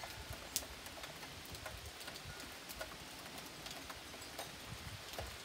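Rain falling steadily, heard as a soft hiss with irregular sharp taps and drips of raindrops. The loudest tap comes about half a second in.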